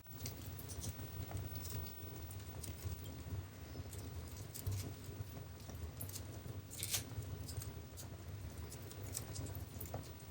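Wood fire crackling in a fireplace: a steady low rumble of the flames with scattered sharp pops and crackles, a louder burst of crackles about seven seconds in.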